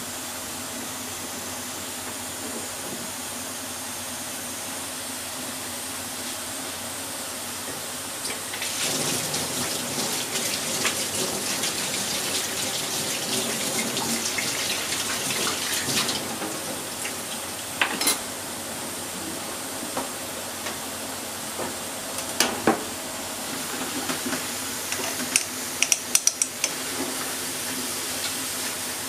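Bacon and eggplant slices sizzling in a pot, the sizzle getting louder and more crackly for several seconds from about eight seconds in. Near the end a utensil clicks and knocks against the pot a few times as the pieces are stirred.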